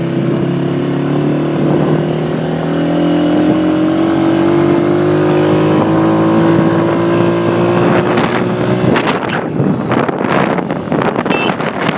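Motorcycle engine running with a steady note that slowly rises in pitch as the bike gains speed. About nine seconds in, the engine note is lost under gusting wind buffeting the microphone.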